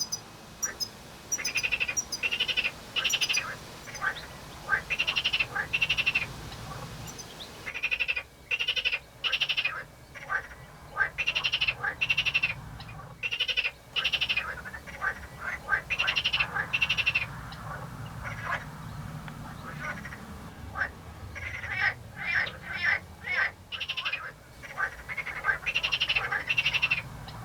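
Frogs croaking in a pond chorus: short pulsed calls repeated in rapid groups of two or three, over and over.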